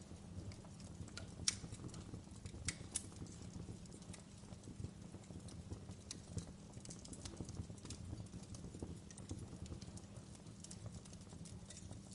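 Wood fire burning low in a fireplace: a faint, steady low rumble with frequent small crackles and a few sharper pops between one and three seconds in.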